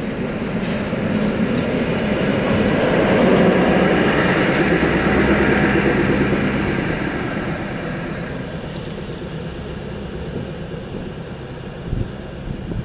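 Passenger train rolling past at close range, its wheels and running gear on the rails. The noise grows to a peak about four seconds in, then fades as the train moves away down the line.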